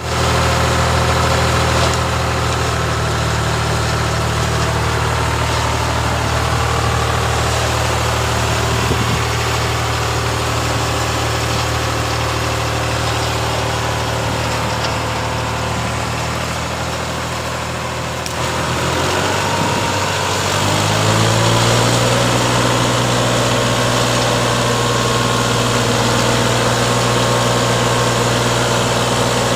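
New Holland 3630 tractor's diesel engine running steadily. About two-thirds of the way in, the engine speed dips, then climbs and holds at a higher, slightly louder steady pitch.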